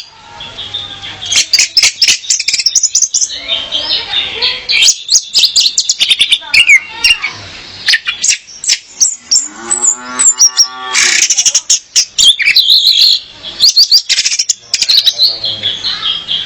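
Female orange-headed thrush (anis merah) calling: rapid high, sharp chirps and short trills in quick runs, with one lower, drawn-out call about ten seconds in.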